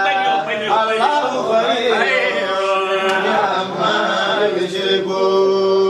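A man's voice chanting melodically in the sung style of an Islamic cleric's prayer, with long held and gliding notes.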